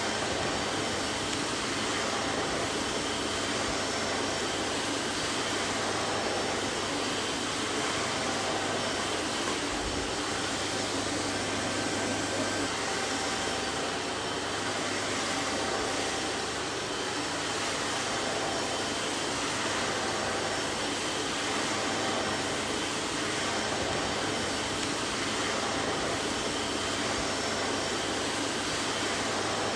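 Vacuum cleaner running steadily, a constant whooshing motor and airflow noise with a faint low hum and no change in pitch.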